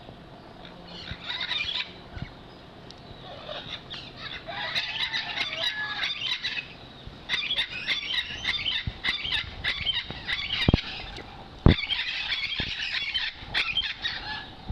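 Animals squealing and chattering in dense, high-pitched bouts that come and go. Two sharp knocks come about eleven and twelve seconds in.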